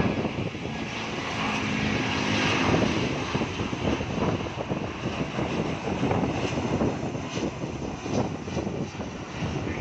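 Airliner engines at takeoff power: a steady rushing rumble, with a faint hum that fades out after about three seconds.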